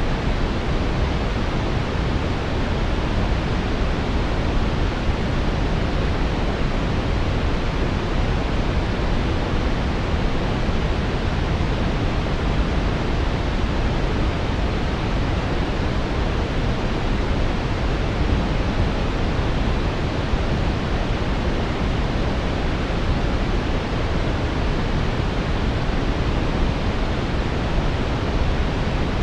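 Synthetic brown noise: a steady, deep hiss weighted toward the low end, unchanging throughout.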